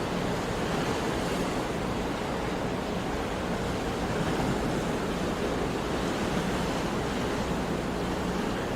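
Sea waves washing on the shore in a steady surf, with some wind noise.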